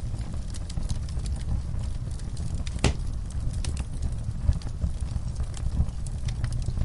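Fireplace wood fire burning with a low rumble and irregular crackling and popping, one sharper pop about three seconds in.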